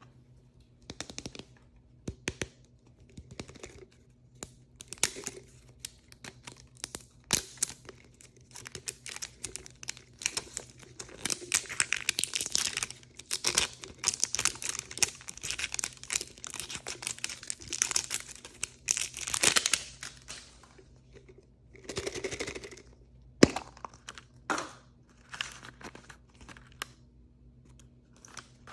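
Plastic blind-bag packaging crinkling and being torn open by hand, with scattered clicks and taps. The crinkling is densest in the middle, and one sharp snap in the last third is the loudest sound.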